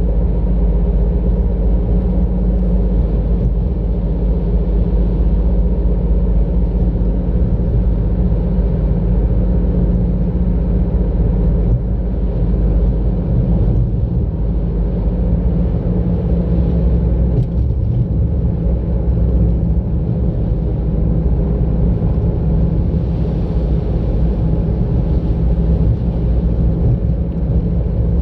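Steady low rumble of a car being driven: engine and tyre road noise heard from on board the vehicle.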